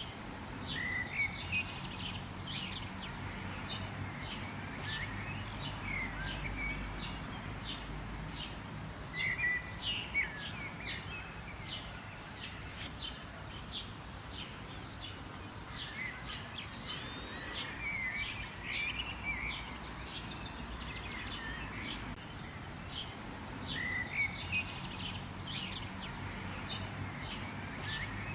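Wild birds chirping and calling: many quick, sharp chirps and short slurred whistles that come in busier clusters every several seconds, over a steady low background rumble.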